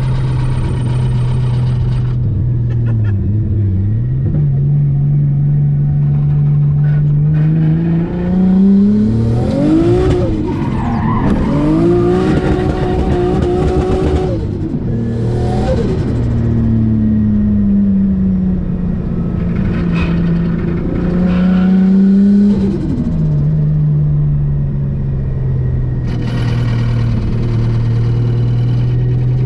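Nissan A31 Cefiro's engine heard from inside the cabin under way: a steady drone while cruising, with the revs climbing and dropping through a couple of gear changes about a third of the way in and one more rise and drop about three-quarters of the way through.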